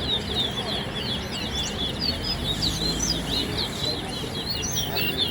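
Caged towa towa (chestnut-bellied seed finch) singing a long, unbroken run of rapid, warbling chirps, the kind of song that is counted in a towa towa singing contest.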